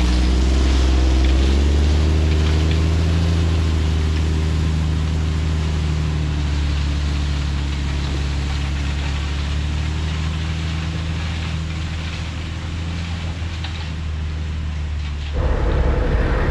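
Diesel truck engine running steadily under way, its pitch rising a little in the first couple of seconds, then holding. Near the end it cuts abruptly to a different engine sound.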